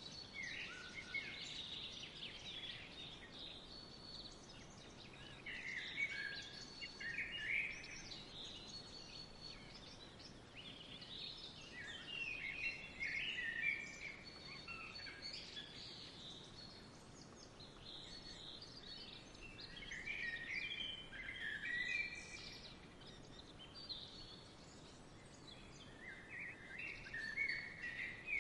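Songbirds chirping in short bouts that return every several seconds, over a faint steady outdoor hiss.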